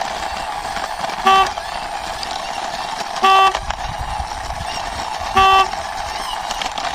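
Three short horn toots about two seconds apart, each a single steady pitched beep, over a steady hiss.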